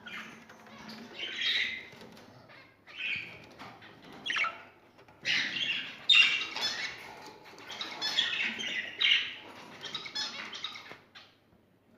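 Small cage birds fluttering and flapping their wings in irregular bursts of rustling.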